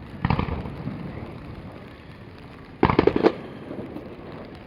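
Fireworks shells bursting overhead: one boom with a rolling, fading tail just after the start, then a rapid cluster of four or five sharp bangs about three seconds in.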